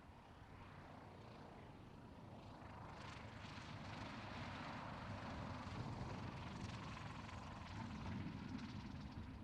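Faint drone of a light propeller aircraft's engine, growing louder from about three seconds in.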